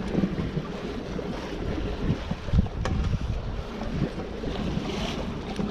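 Wind buffeting the microphone in irregular gusts, over a faint steady hum of ship machinery.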